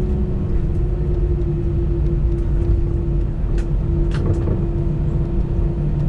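Cabin sound of an Airbus A320 on the ground with its engines at idle: a steady low rumble and a steady hum. There are a few light clicks or rattles a little past the middle.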